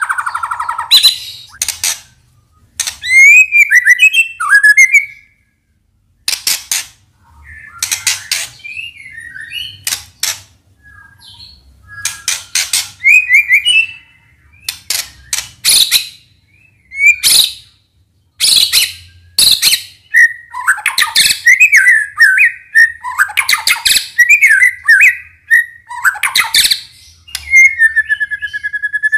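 White-rumped shama (murai batu) singing a loud, varied song: bursts of sharp rapid notes alternating with clear whistled phrases that glide up and down, broken by brief pauses.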